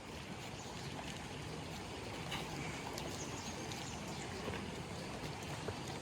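Steady rushing of falling water from a waterfall, an even noise with a few faint ticks.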